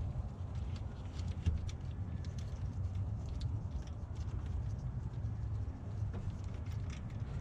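Scattered light metallic clicks and taps of hand tools and bolts being handled while water pump bolts are taken out, irregular rather than in a steady ratchet rhythm, over a steady low hum.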